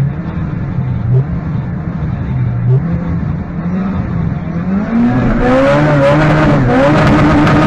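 Turbocharged 1.3-litre four-cylinder of a Fiat Uno Turbo tuned to 420 hp with a Garrett GT3076, heard from inside the cabin. It is revved up and down while the car is held for a standing start, then about five seconds in the car launches and the engine pitch climbs steadily and gets louder under full throttle.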